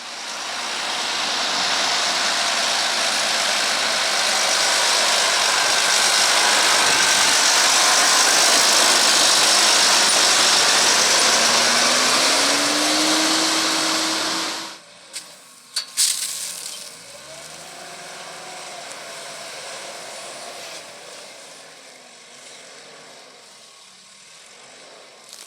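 Deutz-Fahr Agrotron 6190 TTV tractor working a round baler: a loud, steady mechanical rush with the engine pitch rising about twelve seconds in. It drops off suddenly about fifteen seconds in, followed by a few sharp clicks and a quieter, wavering engine hum.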